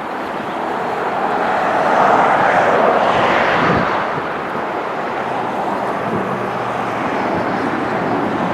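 Jet noise from a wide-body airliner passing by, swelling to its loudest about two to three seconds in, then easing off to a steady rush.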